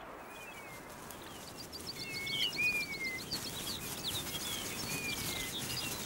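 Wild birds calling: short chirps and whistled, sliding notes, with a quick rattling trill about two seconds in, over a soft, even background hiss.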